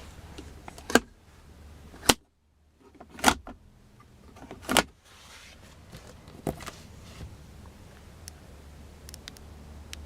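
A handful of sharp clicks and knocks, about five spread over several seconds, from car interior fittings being handled in the rear seat of a 1998 Lexus ES300, over a faint steady low hum.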